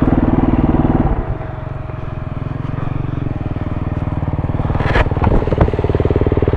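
KTM 350 four-stroke single-cylinder dirt bike engine running, then the throttle is closed about a second in and it settles to a lower, steady putter as the bike slows. A few sharp clicks sound around five seconds in.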